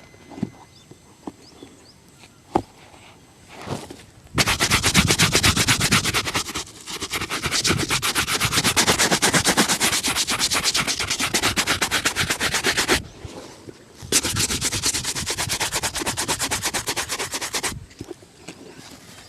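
Shoe brush scrubbed rapidly back and forth over a shoe, in two long spells of fast, even strokes with a short pause between them. A few faint taps come before the brushing starts.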